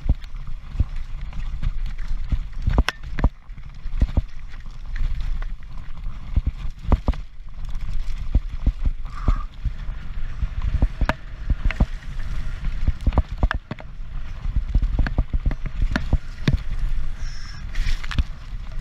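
Transition Patrol mountain bike clattering down rough ground at race speed: a constant low rumble broken by frequent sharp knocks and rattles from the tyres, chain and frame, with a few brief high squeaks near the end.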